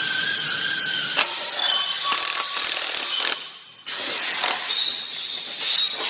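Power wrench running with a whine and ratcheting, in two runs separated by a short stop about three and a half seconds in; typical of bolts being run down during engine assembly.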